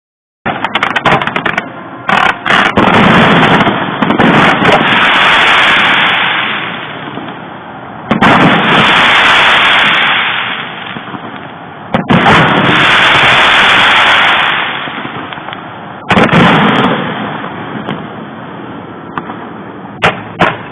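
Fireworks display: loud shell bursts about every four seconds. Each is followed by a few seconds of crackle and hiss that fades before the next.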